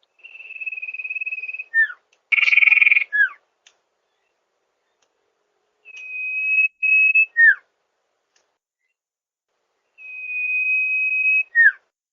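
Sirtu bird singing in three phrases. Each is a steady high whistled note of about a second or more, ending in a quick downward slur. A short harsh, buzzy note comes about two and a half seconds in.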